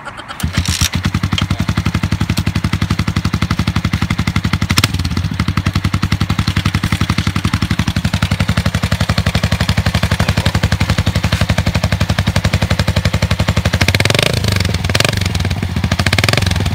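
Yamaha Sniper 150's single-cylinder four-stroke engine through an aftermarket Akrapovic exhaust, starting about half a second in and idling with a steady rapid pulse. Near the end it is revved a few times.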